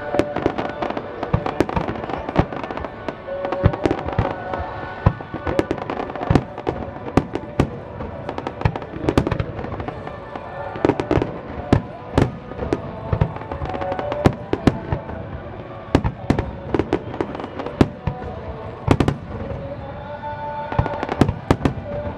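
Fireworks display going off in a dense, continuous series of sharp bangs and crackles, several a second, with music playing underneath.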